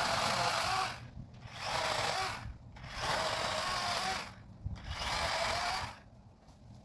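Power saw cutting conifer branches, run in four short bursts of about a second each with brief pauses between, the motor's pitch wavering under load; it stops about six seconds in.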